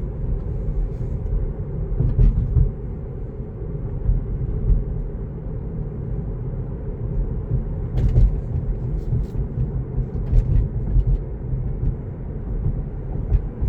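Low, steady road and tyre rumble inside the cabin of a Tesla electric car, with no engine sound. A brief click about eight seconds in.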